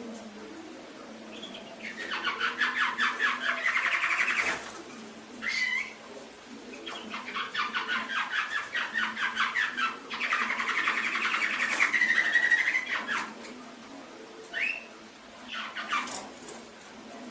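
Domestic canary singing: two long phrases of rapid trills, the second lasting about six seconds, with short rising chirps between and after them.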